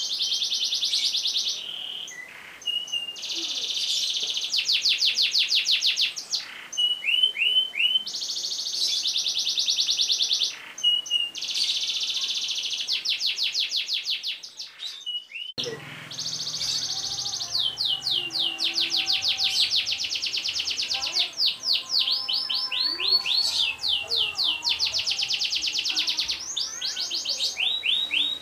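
Domestic canary singing long rolls: fast trills of rapidly repeated high notes in phrases of a second or two, one after another. About halfway through the song breaks off briefly and resumes over a faint low hum.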